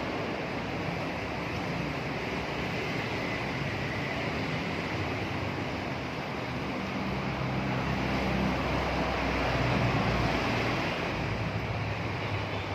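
Steady background noise with a low rumble, growing a little louder about eight seconds in.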